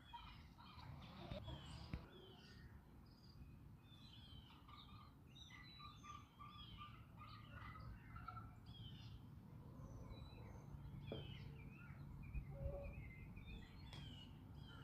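Faint outdoor birdsong: many small birds chirping and calling in short, quick notes, over a low steady rumble of background noise.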